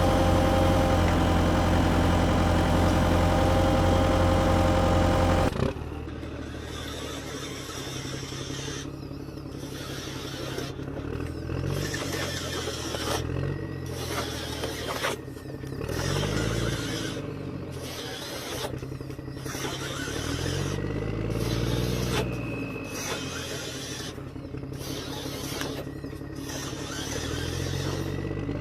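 Radio-controlled toy excavator: a loud steady engine-like drone cuts off suddenly about five and a half seconds in, followed by quieter electric motor whines that rise and fall in pitch again and again as the machine moves.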